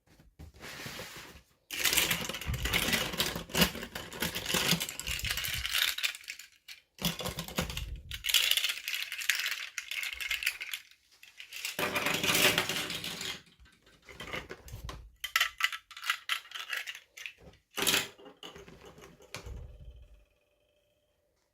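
Toy packaging being handled and opened: three stretches of rustling and crinkling, then a run of small clicks and rattles of little plastic pieces.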